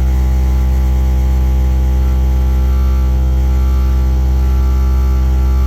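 Worcester Bosch 30i gas boiler running with a loud, steady low drone and a stack of humming overtones above it. The cause is the air intake silencer at the back, which had come off.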